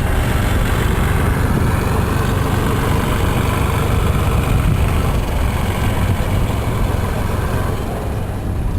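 Steady roar of an aircraft engine passing, with strong low rumble and a high hiss that dies away near the end.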